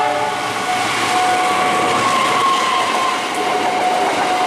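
Diesel-hauled passenger train passing close by, its coaches' wheels rumbling and clicking over the rail joints. A steady high tone sounds over it throughout.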